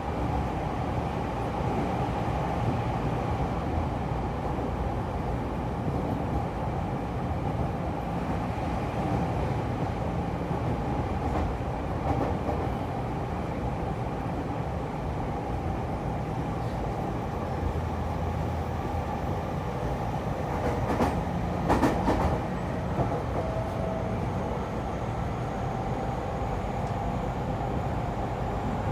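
E231 series electric train running at steady speed, heard from inside the car: a constant rumble and hiss with a faint steady hum. A few sharp clicks or knocks come about three quarters of the way through.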